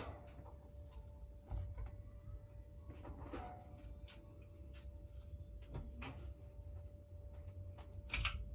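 Niko 42-inch ceiling fan running: a faint, steady low hum with a thin, steady whine over it, and scattered light ticks and clicks, the sharpest about four seconds in and just before the end.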